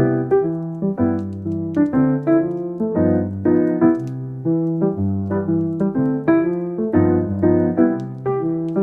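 Soft piano music: a steady run of notes, several a second, with sustained lower tones beneath.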